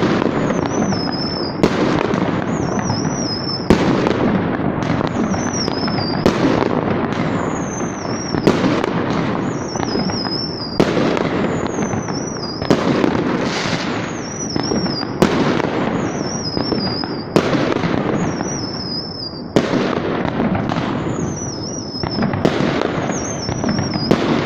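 Fireworks: a sharp bang about every two seconds, each followed by a high, wavering whistle that slides down a little, over a continuous noisy din.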